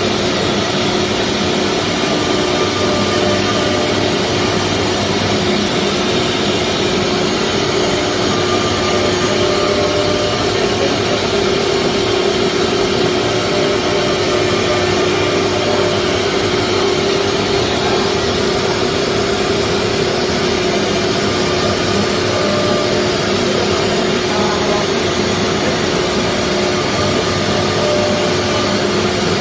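CNC router running: the spindle gives a steady hum with a fainter whine above it, over a constant rushing noise, without letting up.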